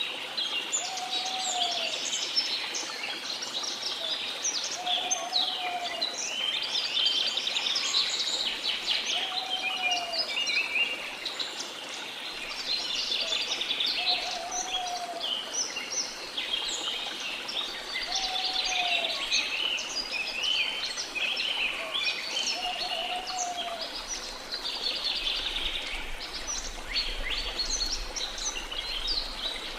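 Tropical rainforest birds chirping and singing densely, with one lower, arching call repeated about every four seconds, six times in all, over a steady rush of waterfall water.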